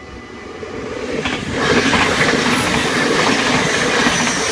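NS DM '90 diesel multiple unit passing close by over the level crossing; its noise builds over the first second or two and then stays loud. Under it the crossing bells keep ringing with a steady tone.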